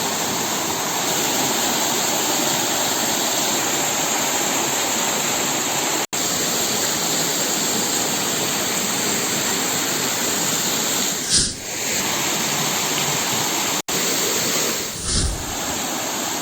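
Waterfall rushing steadily, a loud even roar of falling water. It cuts out abruptly for an instant twice, and two short low thumps come near the end.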